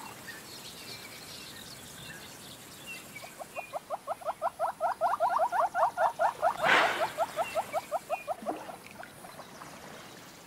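A wild animal's call: a fast, even run of short chirping notes, about eight a second, that swells in loudness and then fades over roughly five seconds, over faint high bird chirps in the background. A single short sharp noise cuts across it partway through.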